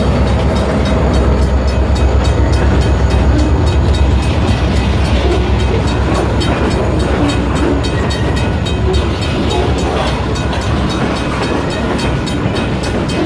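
Diesel-hauled freight train rolling past, with a deep locomotive rumble that is strongest over the first few seconds and then eases, and a steady run of wheel clicks on the rails.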